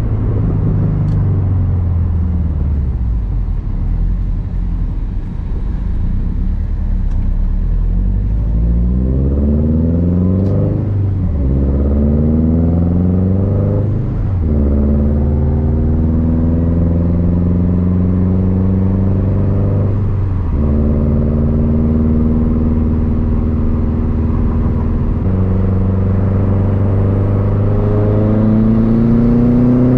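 Subaru WRX STI's turbocharged flat-four running through a loud Tomei Expreme Ti exhaust. It slows first, then accelerates through the gears: the engine's pitch climbs and drops sharply at upshifts about 11, 14 and 20 seconds in, holds steady for a while, then climbs again near the end.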